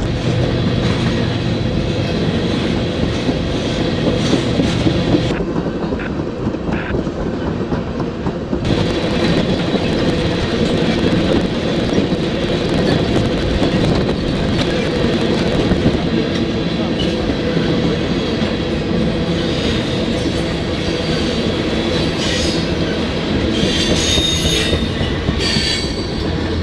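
Kansas City Southern freight train rolling past close by: a continuous rumble and clatter of wheels on the rails, with high wheel squeals toward the end.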